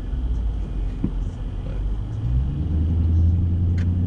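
2013 Dodge Charger Pursuit's 5.7 Hemi V8 with a mid-muffler delete running under way: a steady low exhaust rumble that rises in pitch about two and a half seconds in as the engine picks up revs.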